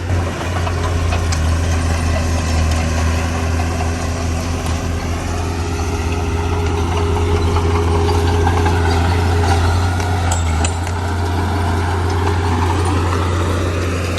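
Heavy diesel engine of a construction machine running steadily, with a deep, constant low hum.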